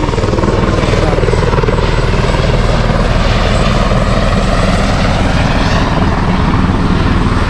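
Helicopter running close by, its rotor giving a loud, steady, rapid chop.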